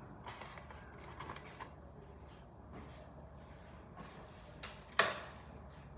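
Quiet handling of coffee-making gear: faint light clicks and rustles, then one sharp knock about five seconds in.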